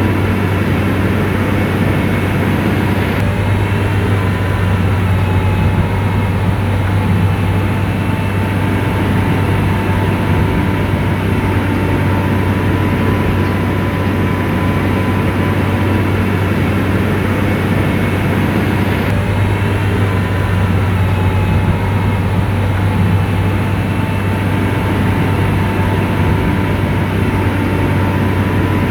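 Komatsu bulldozer's diesel engine running steadily at working load, a deep, even drone with a faint high whine over it.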